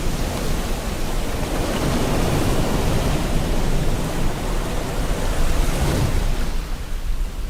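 Steady rain mixed with ocean waves washing ashore, a continuous hiss that swells twice and eases near the end.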